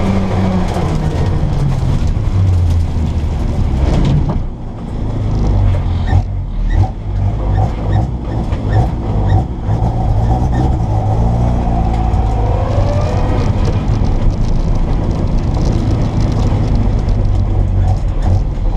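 Mini Cooper S rally car's A-series engine, with an Arden 8-port head and twin Weber 40 DCOE carburettors, heard on board during a stage run. The revs fall at the start and the car runs at lower revs with scattered clatters through the middle. The engine climbs in pitch again about two-thirds of the way in.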